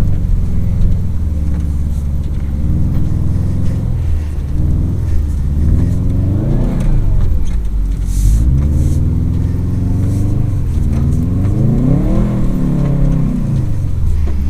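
Subaru WRX STI's turbocharged flat-four engine heard from inside the cabin, revving up and down while the car is driven. Its pitch climbs and falls back twice, about six seconds in and again near twelve seconds.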